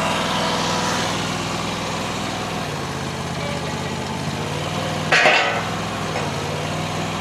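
Small V-twin gas engine of a mini skid steer idling steadily, its note shifting slightly about three seconds in. A brief louder sound cuts in once about five seconds in.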